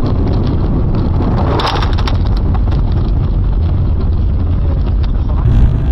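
Dashcam recording of a moving car: loud, steady low rumble of road and engine noise, with a brief clatter of sharp knocks about a second and a half in.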